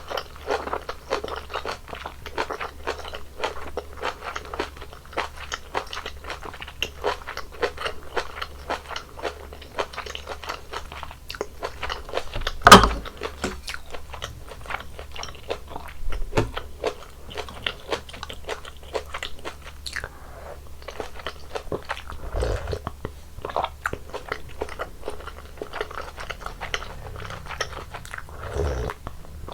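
Close-miked crunchy chewing and biting of malatang, with many small wet clicks. About 13 s in comes one loud sharp knock, with softer knocks later on.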